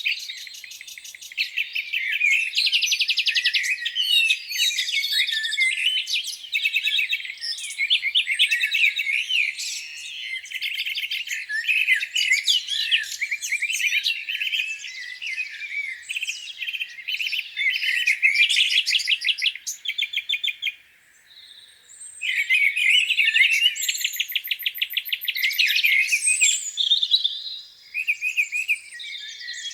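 Several songbirds singing at once, an overlapping chorus of chirps, warbling phrases and fast rattling trills, with a brief lull about two-thirds of the way through.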